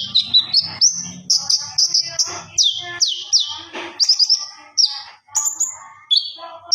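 Konin bird singing vigorously, a fast, nearly unbroken string of high chirps and downward-sweeping whistled notes.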